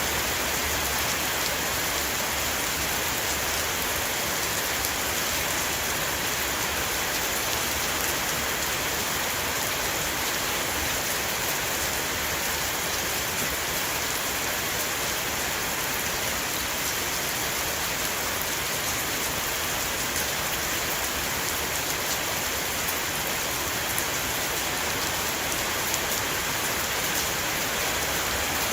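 Steady heavy rain shower falling on a roof, a dense even hiss with many fine drop patters.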